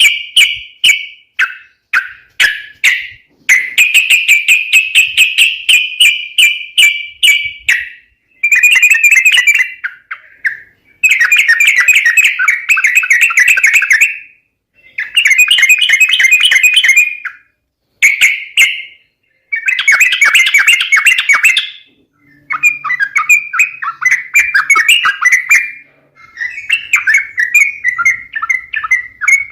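Yellow-vented bulbul (trucuk) calling: repeated bursts of rapid, chattering chirps, each one to three seconds long, with short breaks between.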